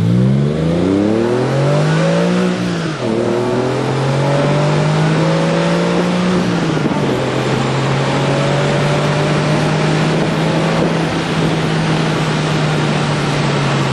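Porsche 996 Carrera flat-six through a Fabspeed Maxflo cat-back exhaust, accelerating hard with the pitch rising. Its revs drop sharply at an upshift about three seconds in, then climb again before easing to a steady drone from about seven seconds on.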